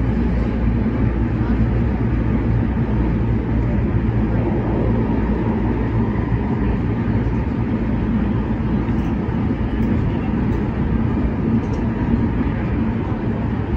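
Kinki Sharyo–Kawasaki electric multiple unit on the MTR Tuen Ma Line running at speed, heard from inside the car: a steady rumble of wheels on rail with a constant low hum.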